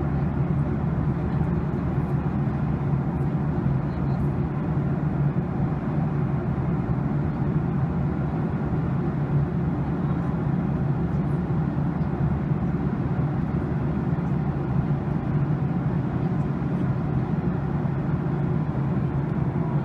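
Steady roar of a jet airliner's engines and airflow heard inside the passenger cabin in cruise, deep and even with no changes.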